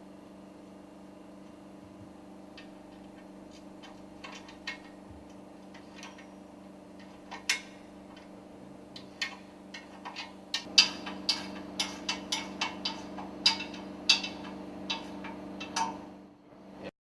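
Clicks and knocks of parts and hand tools being handled while a work table is fitted round a piston rod, over a steady machinery hum. The clicks are scattered at first and come thick and fast from about ten seconds in. The sound cuts off just before the end.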